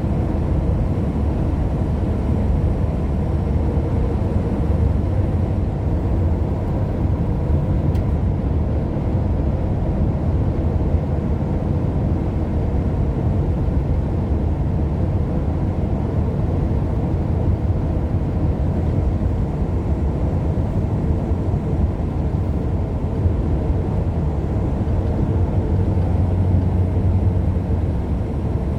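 Steady road noise of a car being driven: an even, unbroken low rumble of engine and tyres with no change in pace.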